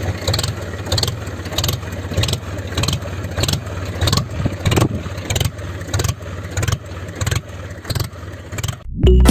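Small motor of a homemade mini tractor flour-mill model running, with a low hum and a rhythmic clacking of about three clicks a second.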